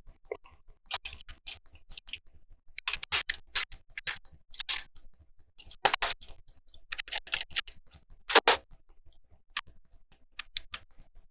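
Plastic Lego bricks clicking and clattering as they are picked up, handled and pressed together, in irregular short bursts, the loudest about six and eight and a half seconds in.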